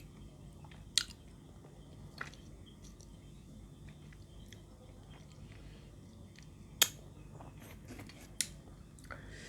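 A person chewing a mouthful of pounded santol salad, with a few sharp clicks spread through it.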